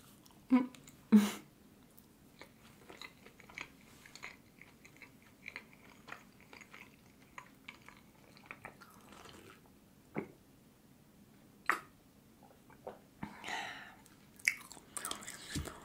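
A person chewing a mouthful of flatbread with hummus into a close microphone: soft wet mouth clicks and smacks, with two louder short sounds near the start. Partway through comes a sip from a teacup.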